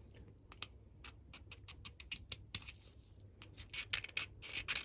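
Small carburettor parts being handled: quick irregular light clicks and scratching, getting busier with scraping and rubbing in the last second or two.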